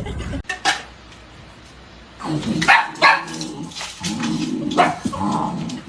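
A dog barking in three loud bouts, starting about two seconds in.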